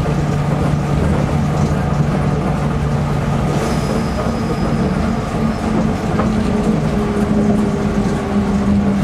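Nippori-Toneri Liner 300-series rubber-tyred automated guideway train running between stations, heard from inside the car: steady running noise with a motor hum that shifts higher in pitch from about six seconds in.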